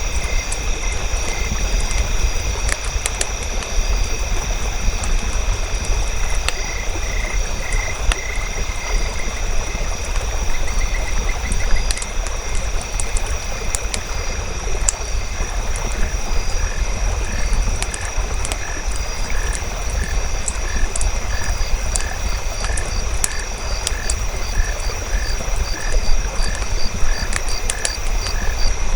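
Ambient nature bed of a campfire crackling with scattered sharp pops over a low rumble, mixed with frogs calling. Steady high ringing tones run throughout, and from about halfway a regular string of repeated calls sets in, roughly one or two a second.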